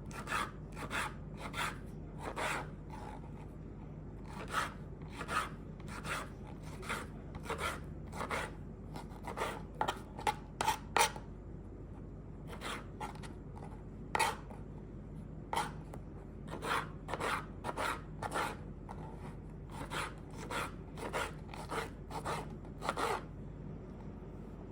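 A long series of short, irregular scraping strokes, roughly one or two a second, as food is prepared by hand, over a faint low steady hum.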